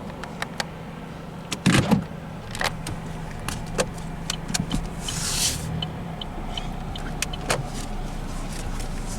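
A vehicle's engine hums steadily under scattered clicks and knocks, with a loud knock just before two seconds in and a short hiss about five seconds in.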